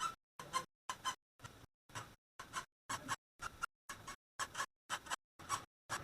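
Ratchet wrench worked in short back-and-forth strokes, a burst of ratchet clicking about twice a second, as bolts are turned out during removal of the intake manifold.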